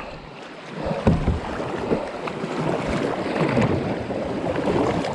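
Rushing, splashing river water around a kayak being paddled down a fast, high river, with a low thump about a second in.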